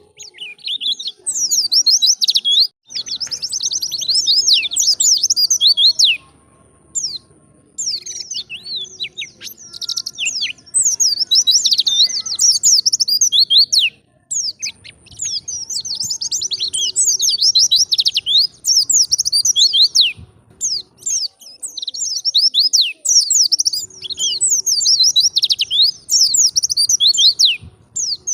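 White-eye (pleci) singing: long phrases of rapid, high twittering chirps, several bursts in a row with short pauses between them. This is the lively wild-type song used for training caged birds.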